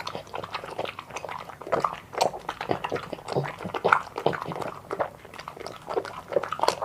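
A puppy eating, with a quick, irregular run of chewing and crunching noises.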